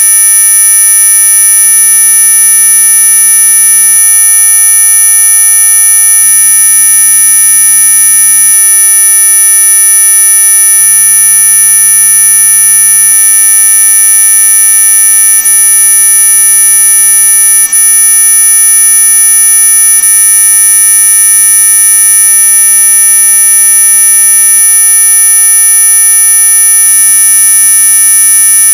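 Continuous electronic high-pitched tone played as a supposed ultrasonic mosquito-repellent sound: a loud, steady whine made of several held pitches, the strongest very high, with no change or pulsing.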